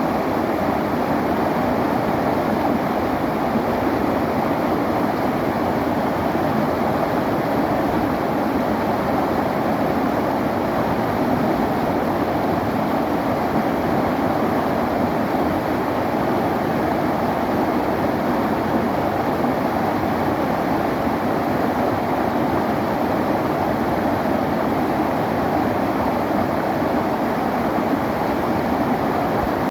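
River water flowing, a steady, unbroken rush of water that stays even throughout.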